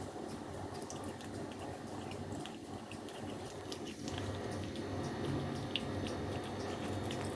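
Kitten gnawing on a toy: scattered small, irregular clicks and crackles of its teeth over a steady background hum.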